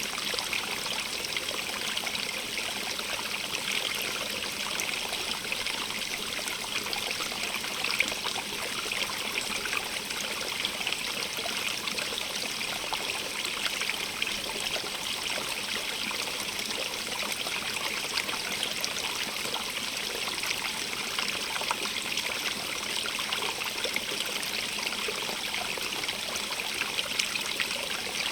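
Running stream water, a steady rush with fine trickling and splashing detail, recorded binaurally.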